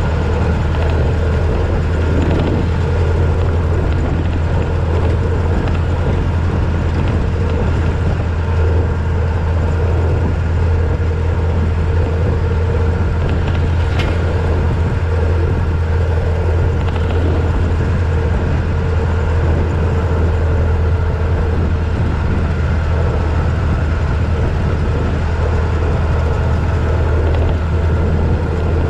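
1926 Ford Model T's four-cylinder flathead engine running steadily as the car cruises, with tyre noise from the gravel road. A single sharp tick sounds about halfway through.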